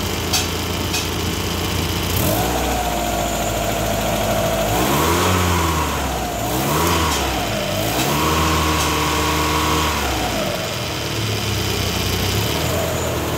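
Car engine running with the AC compressor engaged. It idles, then is revved up and down a few times before settling back to idle near the end.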